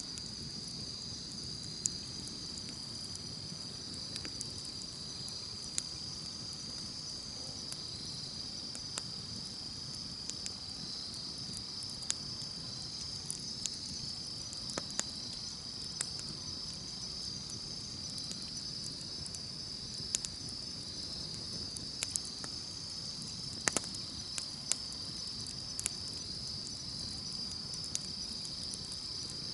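Campfire burning with irregular sharp crackles and pops every second or two over a low steady rush, under a continuous high chirring of insects.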